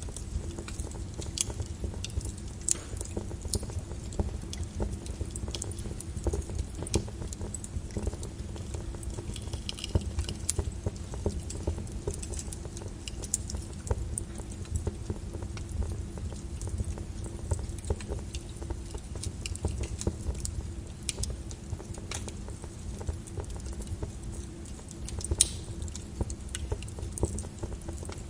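Lava flow crackling: scattered sharp clicks and tinkling of breaking lava crust over a steady low rumble.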